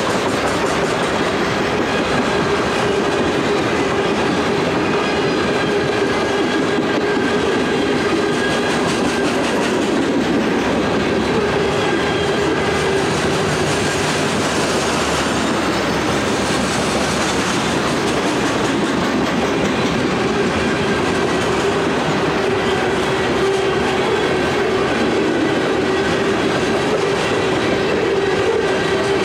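Freight train cars rolling steadily past at close range, wheels running over the rail joints.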